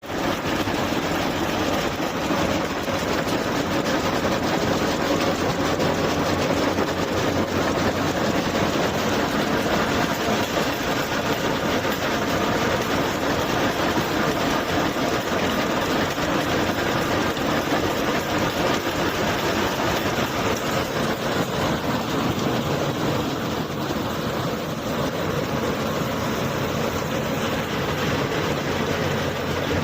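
A 14 hp stationary diesel engine running steadily under load, driving a groundnut thresher, with a dense mechanical clatter from the machinery.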